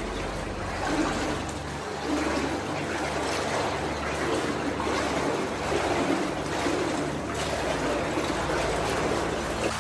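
Shin-deep water sloshing and splashing around legs as people wade through it, in repeated surges about once a second.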